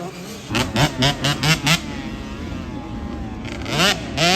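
Small two-stroke dirt bike engines racing. A quick run of about five short throttle blips comes about half a second in, then a steadier engine note, then a long rising rev near the end.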